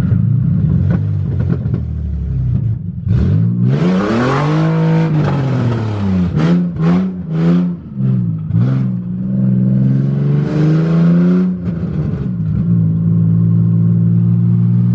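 Nissan 350Z's engine, heard from inside the cabin, accelerating hard about three seconds in, then a run of quick throttle blips and another pull before settling to a steady drone near the end.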